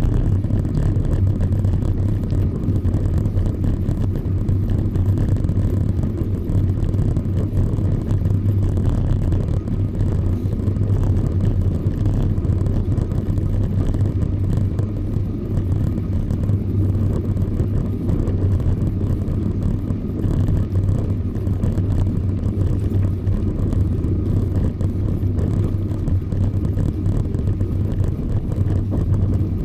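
Steady low rumble of wind and road noise from a bicycle riding along, even throughout with no distinct events.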